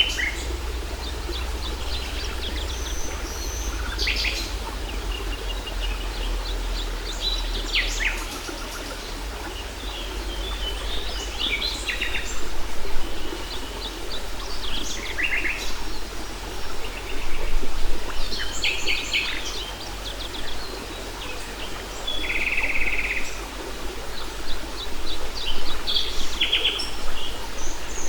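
Several songbirds calling and singing in short, varied chirps and trills over the steady rush of a waterfall.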